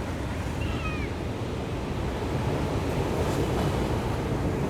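Ocean surf washing onto a beach in a steady rush, swelling a little in the middle, with a faint short high gliding call about a second in.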